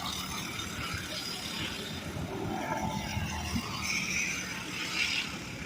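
Small racing engines running, a steady mechanical din across the track.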